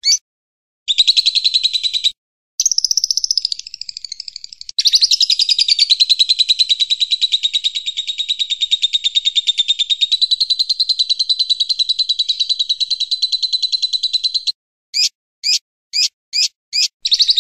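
A small songbird singing rapid, high trills broken by short pauses, the longest running for about ten seconds, followed near the end by a quick series of separate sharp chirps.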